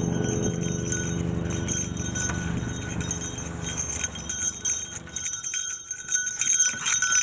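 Light metallic jingling, with footsteps, while walking. Under it runs a low steady hum that fades out about five seconds in.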